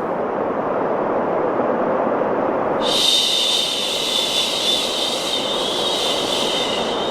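Steady, muffled rushing white noise, with a long drawn-out "shhh" shushing sound starting about three seconds in and held to the end.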